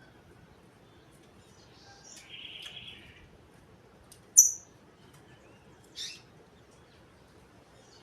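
Green-winged saltator (trinca-ferro) singing: a short rising note then a buzzy phrase about two seconds in, a loud, very high, sharp note about halfway through, and a brief sharp note about six seconds in.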